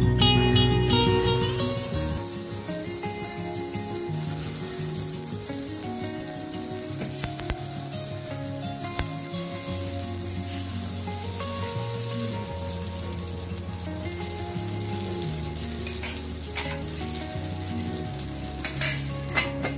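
Oil sizzling in a cast appe (paniyaram) pan as rice-and-lentil batter fries in its cavities, a steady hiss that starts about a second in. A few sharp clicks near the end, over soft background music.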